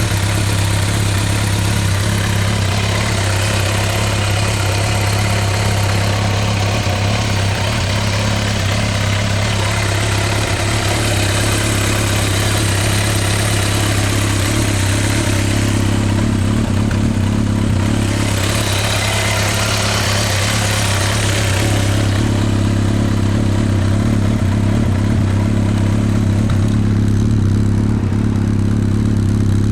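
Kawasaki ZRX1200R's inline-four engine idling steadily through a STRIKER aftermarket exhaust, a deep even burble with no revving.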